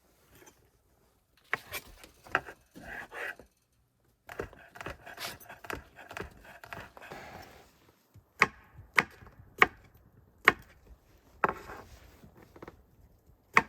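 Knife chopping vegetables on a cutting board. There are a few scattered chops with some rustling of the food, then single sharp chops at a steady pace, about one every half second to a second, in the second half.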